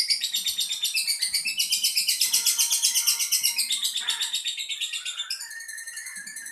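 Lovebird's long 'ngekek' chattering song: a rapid, high-pitched stream of chirps, about eight to the second, carrying on without a break and growing fainter near the end.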